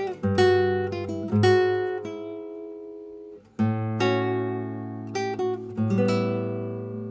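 Acoustic guitar playing a slow tune, chords strummed and left to ring out, with a short break about halfway through.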